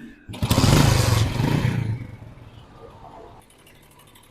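Motorcycle engine revved once, loudly for about a second and a half, then dropping back to a quieter steady idle.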